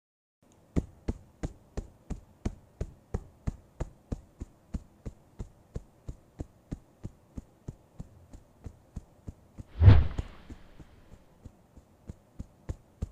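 Evenly spaced dull thuds, about three a second, running steadily as a soundtrack effect. About ten seconds in comes one louder thump with a brief hissing tail.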